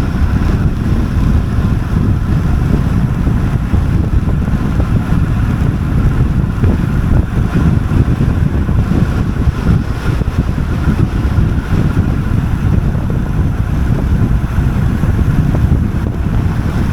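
Heavy wind rush buffeting the microphone of a camera on a road bike descending at speed: a loud, steady, low roar.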